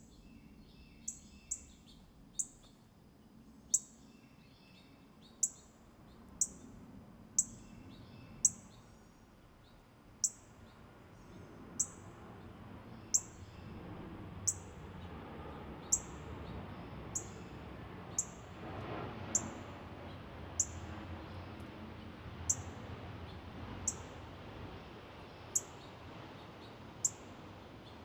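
A small songbird repeats a short, high chip note that sweeps down in pitch, about once every second or so, around twenty times. Fainter, lower twittering notes come in the first several seconds. A low rumble of background noise rises behind the calls from about the middle on.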